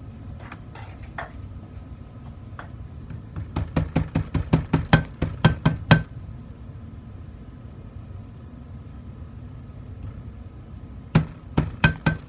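Small hammer tapping a bent 14k gold strip flat to take out its arc. Two quick runs of light, ringing metal taps, several a second, the first starting about three and a half seconds in and the second near the end.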